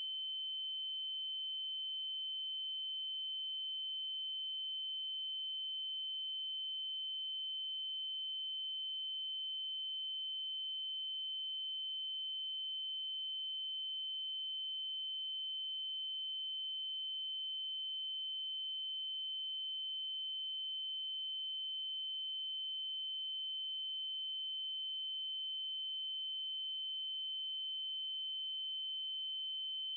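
Steady 3072 Hz triangle-wave test tone: one constant, high-pitched electronic tone with fainter overtones above it, unchanging in pitch and level.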